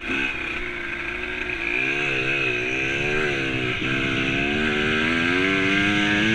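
Dirt bike engine running under throttle as the bike is ridden. Its pitch wavers up and down, drops briefly about four seconds in, then climbs steadily.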